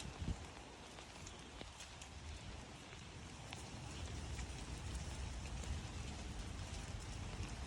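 Steady rain falling, a hiss with scattered individual drop ticks, over a low rumble.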